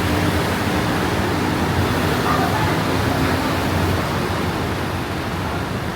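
Steady rushing roar of road traffic, with a low engine hum underneath.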